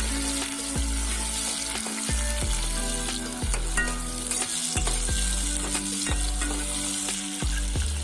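Chopped tomatoes, onion and garlic sizzling in hot oil in a kadhai, with a steel ladle stirring and scraping the pan in scattered clicks. Background music with a steady bass line plays underneath.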